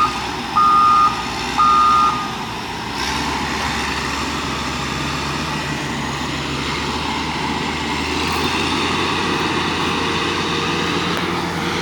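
A truck's reversing alarm beeps three times, about once a second, and stops about two seconds in. The truck's engine keeps running steadily after that.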